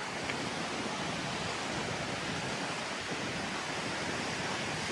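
Goðafoss waterfall rushing, a steady, even roar of falling water.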